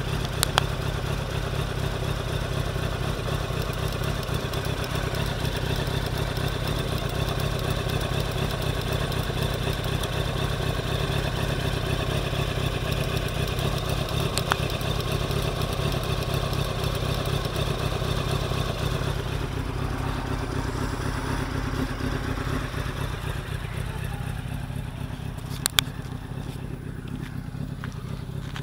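1999 Honda CBR900RR Fireblade's inline-four engine idling steadily, with a few sharp clicks over it.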